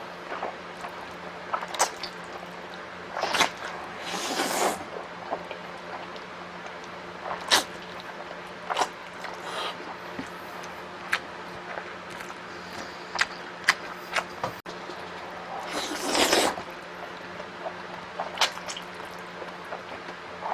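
Close-miked eating sounds: wet chewing, lip smacks and clicks, with a couple of longer half-second slurps of noodles or sauce.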